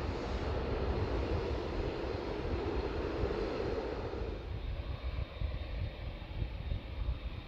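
Twin turboprop engines of a Bombardier DHC-8-402Q (Q400) airliner on its landing, a steady rushing rumble that fades away about four and a half seconds in.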